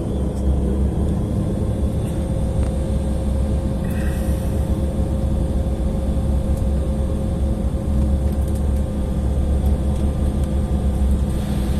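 Cabin noise inside an Embraer E175 airliner while it taxis: a steady low rumble with a constant engine hum from its GE CF34 turbofans.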